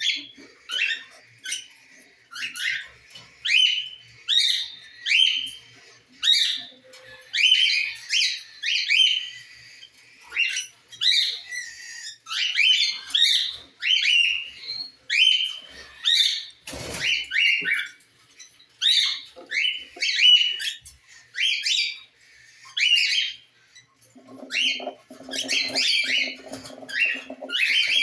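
Cockatiels giving repeated short, sweeping chirps, about one or two a second. A low, steady hum joins them near the end.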